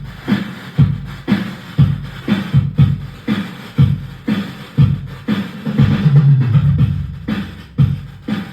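Roland XPS-10 keyboard playing a drum rhythm pattern through its speaker, about two beats a second, with a humming, rustling noise mixed into the sound: the fault the keyboard is in for repair.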